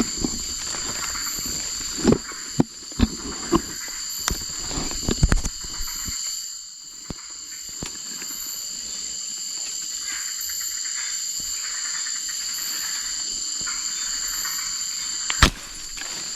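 Steady, high-pitched night chorus of crickets. A scatter of knocks and rustles falls in the first six seconds, and one sharp knock comes near the end.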